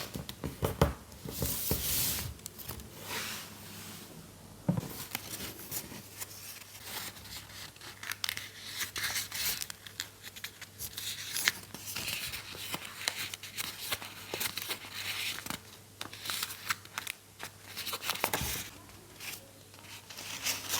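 Paper being handled by hand: irregular rustling and crinkling with small sharp clicks, the sounds of sheets being worked and shaped.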